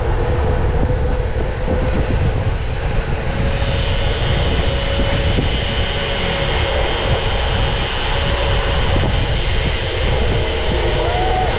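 Wind rushing over the microphone of a camera carried on a moving bicycle, with a steady hum running under it; a higher hiss joins in a few seconds in.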